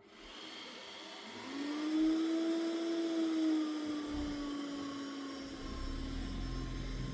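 Mova Z60 robot vacuum's suction fan starting up: a hiss, then a whine rising in pitch over about a second and settling into a steady hum. A low rumble joins it near the end.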